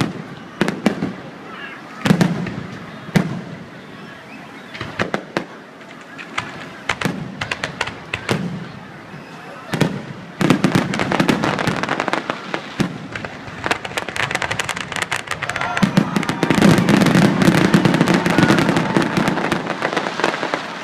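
Aerial fireworks going off: single sharp bangs about once a second, then from about halfway a dense, rapid crackling of many small pops, thickest near the end.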